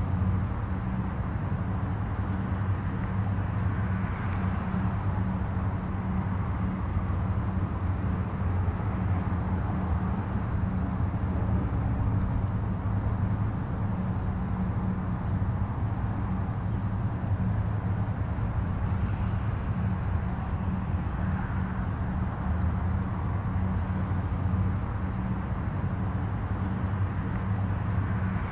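Steady hum of distant highway traffic, a low rumble of tyres and engines with a faint hiss above it. Now and then it swells a little as a nearer vehicle passes.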